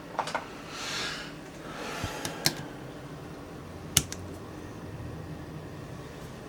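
Sharpening stones being handled and swapped: a few light clicks near the start, two short scraping swells in the first half, and one sharp click about four seconds in.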